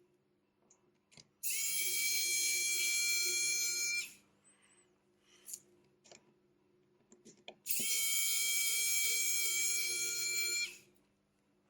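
A small handheld power tool's electric motor runs twice in steady, high-pitched whirring bursts of about two and a half and three seconds, starting and stopping abruptly, with a few faint clicks in between.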